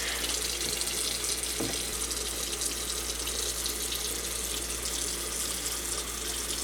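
Faucet running in a steady stream into a sink.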